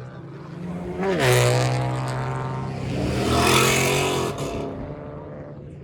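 A car engine revs up about a second in and holds a steady high note for about three seconds, with a loud rush of exhaust, then drops away.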